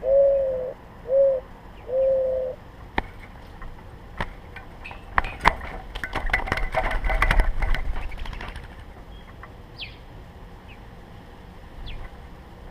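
Mourning dove cooing the last three low notes of its song. About five seconds in comes a burst of sharp clicks and rustling lasting about three seconds, and near the end a few short, high chip notes from small birds.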